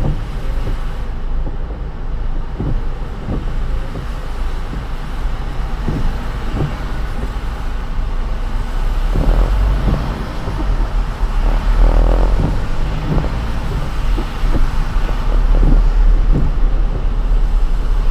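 Car driving on a wet road in the rain: a steady low rumble and tyre hiss, with scattered light knocks, growing a little louder toward the end.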